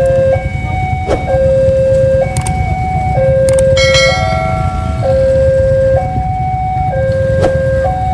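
Two-tone electronic warning alarm alternating between a low and a higher note, each held a little under a second, over a steady low rumble, with a few sharp clicks.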